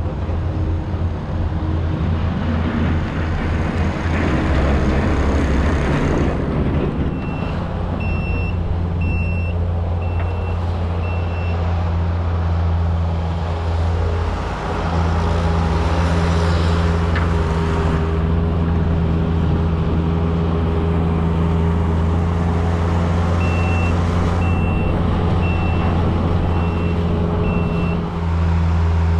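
A vehicle engine running steadily close by. A reversing alarm beeps about once a second, first for a few seconds about a quarter of the way in and again for a few seconds near the end.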